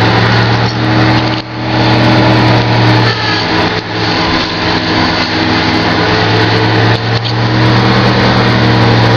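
1986 Ford F-150's straight-six engine idling steadily just after a cold start, dipping briefly in loudness three times.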